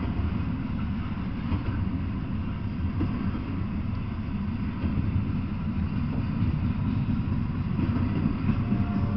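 Double-stack intermodal freight train rolling past on well cars: a steady low rumble of steel wheels on the rails.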